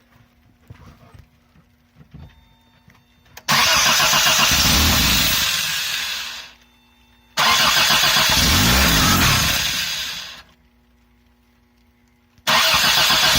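1984 Toyota Tercel's four-cylinder engine cranking on the starter in three bouts of about three seconds each, the last starting near the end. This is a first start after a Weber carburettor conversion: the mechanical fuel pump is still drawing fuel up to the carb.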